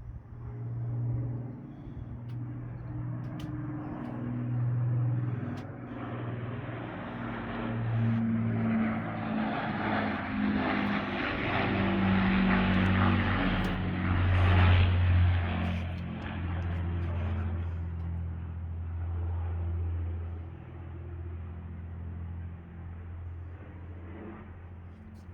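Avro Lancaster bomber's four Rolls-Royce Merlin engines flying past. The sound builds to a peak a little past halfway, the pitch drops as the aircraft passes, then it fades away.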